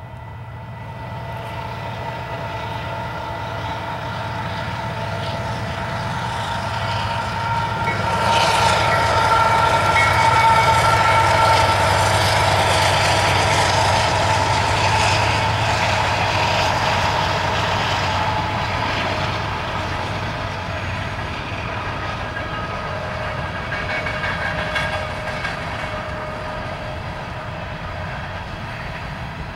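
Union Pacific coal train of hopper cars rolling past: a continuous low rumble with steady ringing tones above it, swelling to its loudest about a third of the way in and easing off after.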